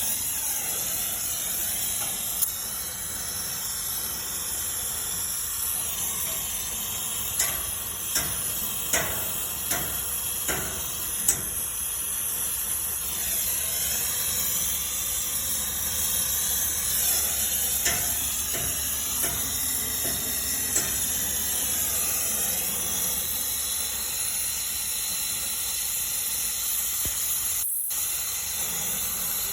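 Brazing torch flame hissing steadily while copper refrigerant pipe joints are brazed, with a few sharp metallic clicks or taps.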